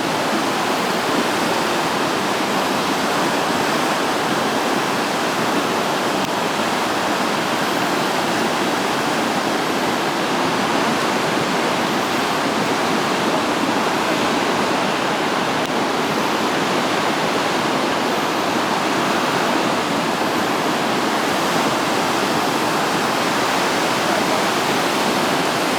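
Floodwater released through the open gates of a concrete gravity dam, a steady rush of water with no let-up.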